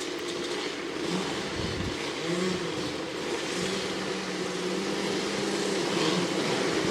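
Vintage motocross bikes running on the track, their engine notes wavering up and down with the throttle and getting louder toward the end.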